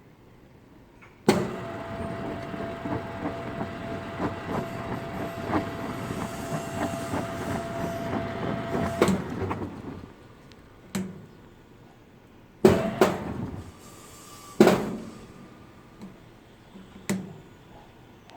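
Commercial horizontal drum washing machine running: it starts suddenly about a second in with a steady whine and rattling, knocking noise, then dies away after about eight seconds. Several separate sharp bangs follow.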